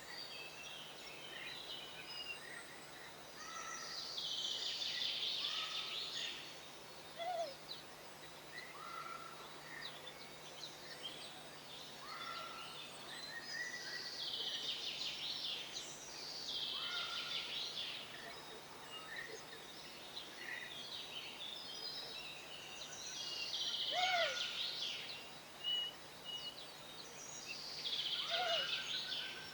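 Small songbirds singing and calling: a bird repeats a rapid, intricate song phrase of about two seconds several times, with short chirps and a few quick down-slurred notes from other birds in between.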